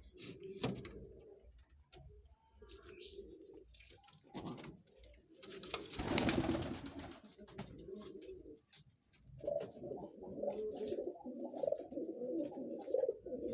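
Domestic pigeons cooing in repeated low rolling calls, more continuous in the last few seconds. A short burst of rustling noise, the loudest thing here, comes about six seconds in.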